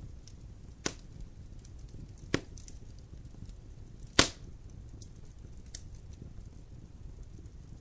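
Wood fire in a fireplace crackling over a low steady rumble, with three sharp pops, the loudest about four seconds in.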